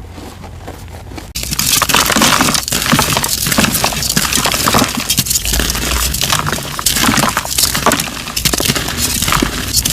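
Dyed gym chalk being crushed and crumbled: dense, crispy crunching with many small crackles. It starts abruptly about a second and a half in, after a fainter stretch.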